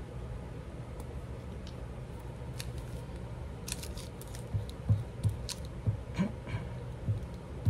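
Paper and craft pieces being handled on a work table: scattered small crinkles and clicks, then soft low thumps repeating from a little past halfway, over a steady low hum.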